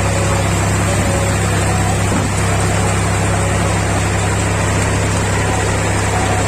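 Tractor diesel engine running steadily at a constant speed during paddy threshing, a loud even low hum.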